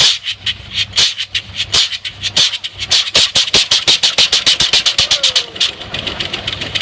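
Case 20-40 tractor's two-cylinder engine firing with sharp exhaust cracks. The beats come about once a second at first, then pick up to a steady five or so a second as the engine gathers speed.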